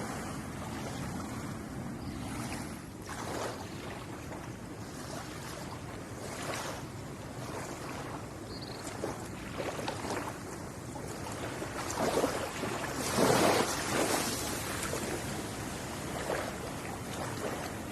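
Ocean waves washing onto a shore: a steady wash of surf with louder breaks every few seconds, the biggest wave breaking about two-thirds of the way through.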